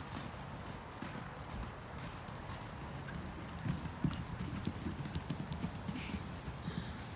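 Hoofbeats of two cob ponies moving off, irregular low thuds that pick up about halfway through.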